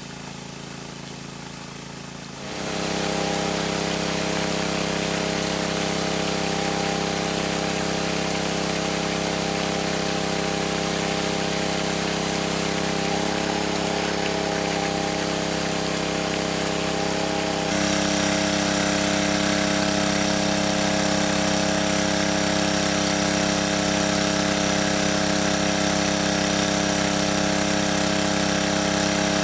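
An engine running steadily. It comes up sharply about two and a half seconds in and gets louder again about two-thirds of the way through.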